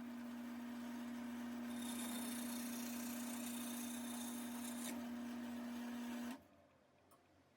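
Wood lathe running with a steady motor hum while a tool or abrasive rubs against the spinning walnut leg, the rubbing brightest in the middle. All of it cuts off suddenly near the end.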